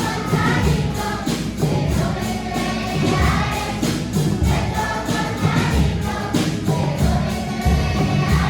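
A children's choir singing a song over an instrumental accompaniment with a steady beat and a moving bass line.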